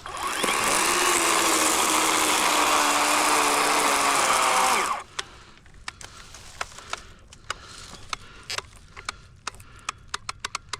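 Battery electric chainsaw (Worx WG384.9, 18-inch Oregon bar) spinning up and cutting through a log for about five seconds, its motor whine holding steady under load, then stopping suddenly. A scatter of sharp clicks and snaps follows.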